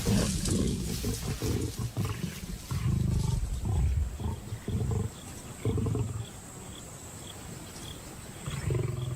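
Lions growling and snarling in a series of short, deep bursts as a male forces lionesses off a kill, quieter after about six seconds with one more growl near the end. An insect chirps about twice a second in the quieter part.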